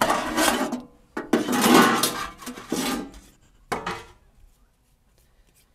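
Cookware clattering as it is handled while water is got ready, with a few sharp knocks about three and four seconds in.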